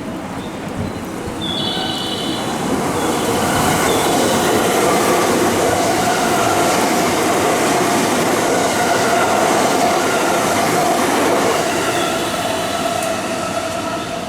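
JR West electric train running along the platform. Its noise builds over the first few seconds and holds steady, then eases slightly near the end, with thin high-pitched tones about two seconds in and again near the end.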